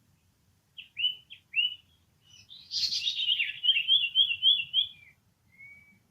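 High-pitched animal calls: two short chirps about a second in, then a longer, louder wavering trill, and a faint short note near the end.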